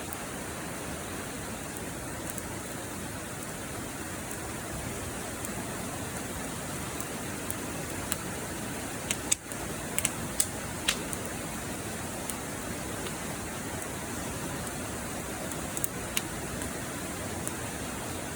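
Wood fire burning: a steady hiss with sharp crackles and pops scattered through it, most of them about nine to eleven seconds in.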